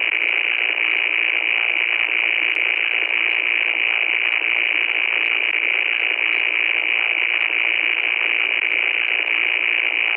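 Loud, steady static noise, a hiss with faint scattered crackles through it.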